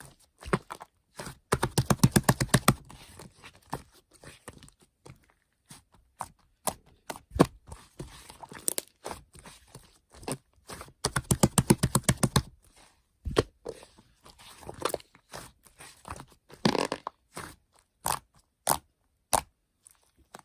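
Two bursts of rapid crunching clicks, a second or so each, with scattered single clicks and knocks between them.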